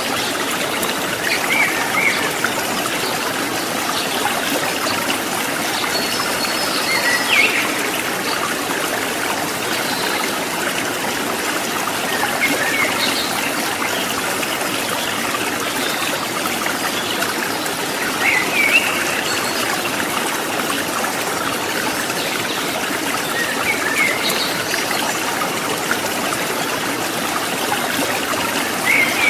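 Stream water trickling and splashing steadily, with a few short bird chirps every several seconds.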